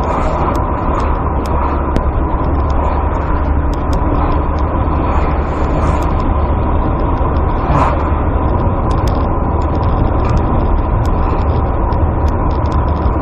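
Motor vehicle engine and road noise: a steady low rumble with a thin steady tone above it and scattered small clicks.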